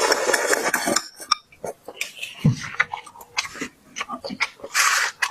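Close-miked eating sounds: wet mouth clicks and chewing, with a noisy rustle in the first second, a low thump about two and a half seconds in, and a short hissing burst near the end.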